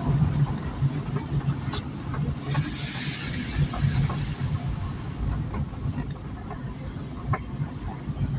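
A vehicle's engine running steadily on the move, with a few light knocks and a brief hiss about three seconds in.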